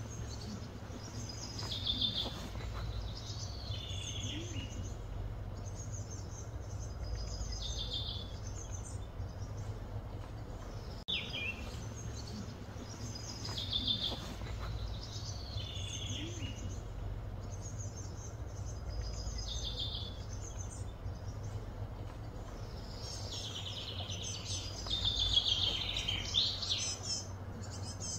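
A songbird sings short, high phrases that slide downward, repeated every couple of seconds, with a longer run of song near the end, over a steady low rumble.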